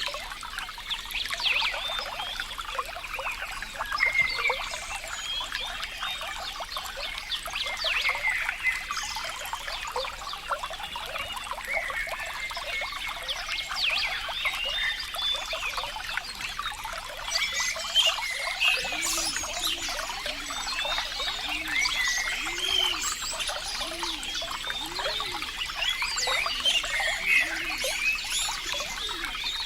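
Water trickling and bubbling steadily, with many small splashes. About two-thirds of the way through, a run of short low sounds begins, roughly one a second.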